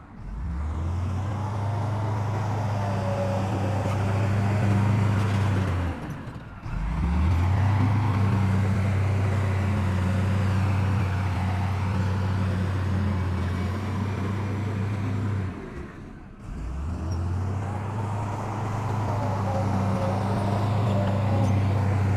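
Heavy diesel engines of earthmoving machinery running steadily with a deep drone. The drone breaks off briefly about six seconds in and again about sixteen seconds in, then resumes.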